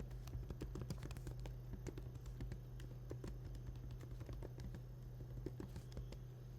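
Typing on a computer keyboard: irregular light key clicks over a steady low hum.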